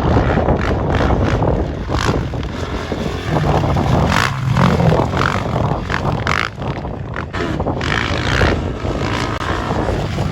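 Off-road motorcycle engine running and revving, its pitch rising and falling, with rough noise over it throughout.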